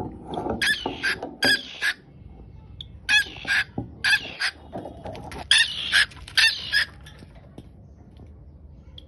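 Birds squawking in short, high-pitched calls that come in quick clusters of two or three, repeating every second or so with brief pauses between.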